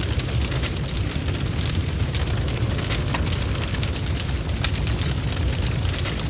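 Bonfire burning with a steady low rumble of flames and many sharp, irregular crackles and pops of burning wood.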